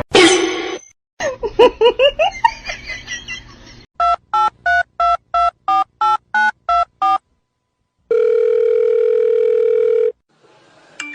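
About ten short telephone keypad dialing tones in quick, even succession, followed by a steady phone tone lasting about two seconds. Before them comes a run of short, high squeaks that rise and fall in pitch.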